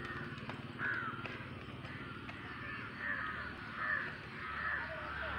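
Birds calling: short, arching calls, one about a second in and then several more about a second apart in the second half.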